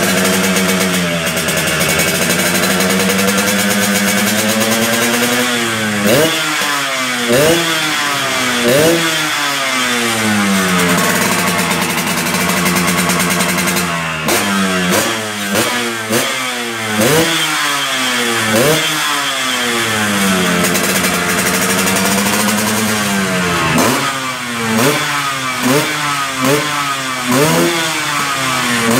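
Yamaha RX-King's 135 cc two-stroke single-cylinder engine running through an SR Thailand-style raw galvanized racing exhaust. It idles with the revs wandering up and down for the first several seconds, then gives repeated quick throttle blips, each rev jumping up sharply and falling back, in bursts around a third of the way in, through the middle, and again near the end.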